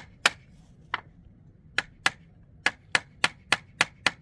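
A run of about eleven sharp knocks from something being struck repeatedly, uneven at first, then settling to a steady beat of about three a second in the second half.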